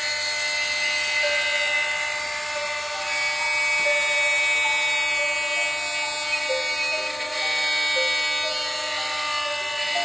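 CNC drilling and milling machine running: a steady high whine from its spindles, with several tones that step up and down in pitch every second or so.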